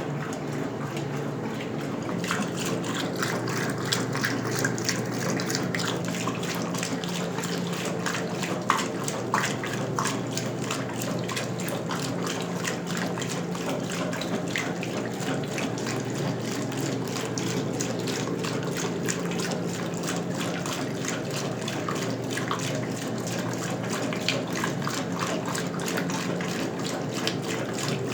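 A 1977 Westinghouse Lavínia washing machine running with water, water splashing and running in its tub over a steady hum.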